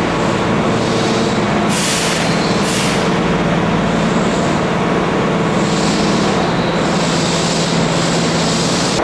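Keihan Main Line electric commuter train running at the platform, a steady hum under the noise of the cars, with two short hisses of air a little under two and about three seconds in.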